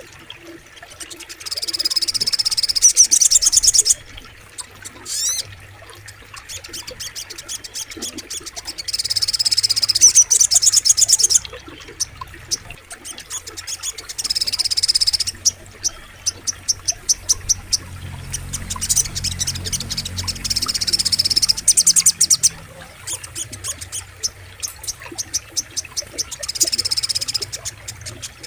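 Sogok ontong songbird singing in repeated bursts of fast high trills, each a second or few long and coming every few seconds, with rapid strings of sharp chipping notes in between. A faint low rush of flowing water lies underneath.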